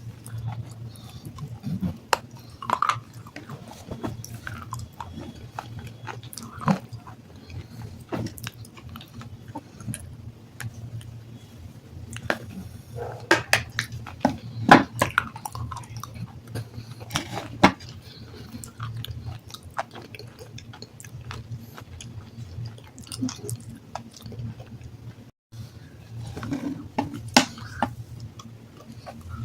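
Close-up crunching and chewing of soaked black sandstone: irregular sharp cracks and grinding bites, thickest about halfway through and again near the end, over a low steady hum.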